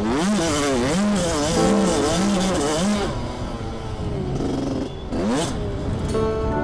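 Suzuki 85cc two-stroke motocross bike engine revving up and down in quick surges, about four in the first three seconds. It then runs steadier and lower, and revs sharply once more about five seconds in.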